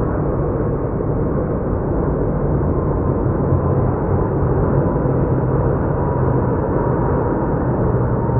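Jet airliner engines running, a loud steady rumble with a faint high whine coming in about two-thirds of the way through.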